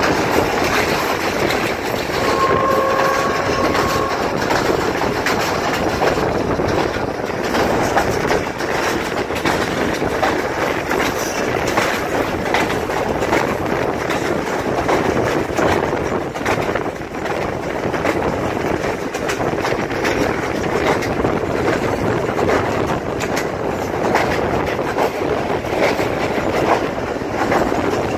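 Passenger train running at speed, heard from an open coach doorway: a steady rumbling rush with wheels clattering over the rail joints. A short steady tone sounds about two seconds in and lasts about two seconds.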